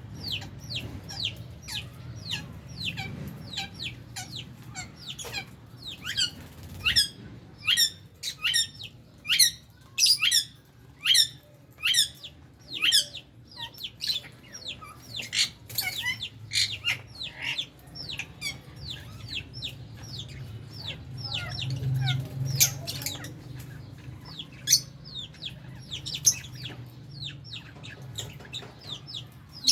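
Flock of lovebirds calling: many short, shrill chirps, each dropping quickly in pitch, coming a few a second and busiest in the middle. A low steady hum runs underneath.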